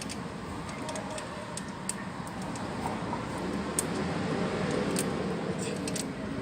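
Scattered sharp metal clicks of a ratchet wrench tightening the gear-oil drain bolt on a GY6 scooter's gearbox, over a steady traffic rumble that grows louder toward the end.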